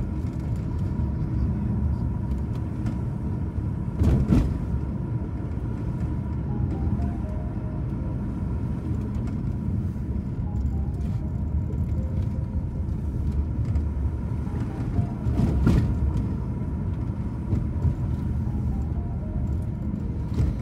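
Car interior road and engine rumble while driving, steady throughout, with two short louder knocks, about four and fifteen seconds in, like the car going over bumps.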